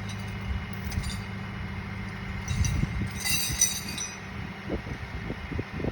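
A vehicle engine running steadily, with two bursts of metallic clinking about half a second and three seconds in, and a few low knocks near the end.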